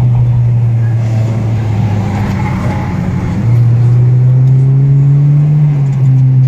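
A car engine driven hard on a winding road. It eases off for a moment, then comes back on power about halfway through, its pitch climbing steadily before dropping at what sounds like a gear change near the end.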